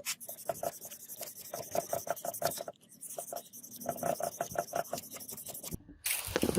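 Rapid back-and-forth abrasive scraping strokes, about seven a second, in runs broken by two brief gaps.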